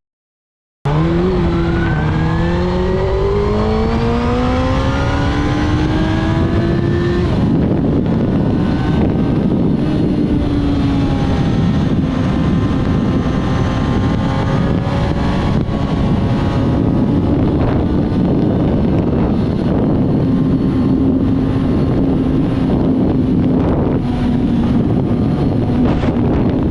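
Suzuki GSX-R1000 K6's inline-four engine through a full Akrapovič titanium exhaust, heard onboard. After a brief dropout at the start, the revs climb hard through a gear, drop at an upshift, then hold steady under heavy wind rush.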